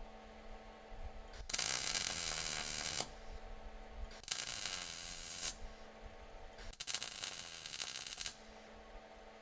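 Welder joining exhaust pipe in short passes: three crackling bursts of about a second and a half each, with a steady hum between them.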